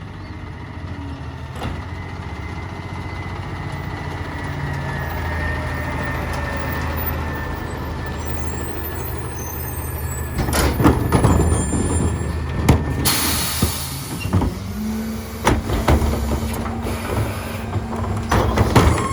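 Peterbilt 348 rear-load garbage truck: its engine hum grows steadily louder, then about ten seconds in come a run of sharp clanks and knocks and a loud air-brake hiss, followed by a steady low hum with further clanks.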